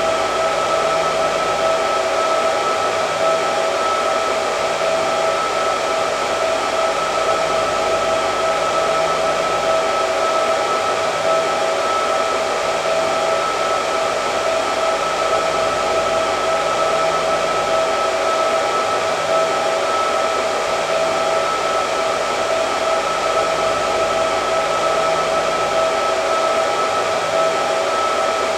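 Hair dryer running steadily: an even rush of air with a constant whine at two pitches, unchanging in loudness.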